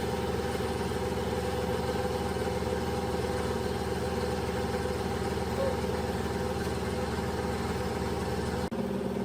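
A machine running steadily with a constant hum, changing abruptly near the end.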